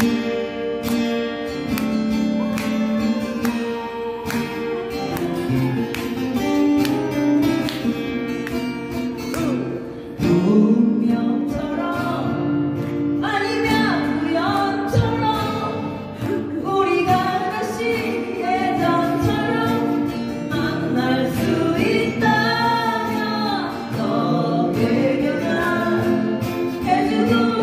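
Acoustic guitar strumming an old song. Singing comes in about ten seconds in and carries on over the guitar.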